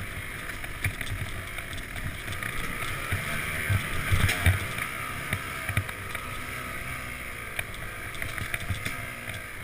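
Yamaha YZ250X two-stroke dirt bike engine running while being ridden, its pitch rising and falling, with scattered low thumps, loudest about four seconds in.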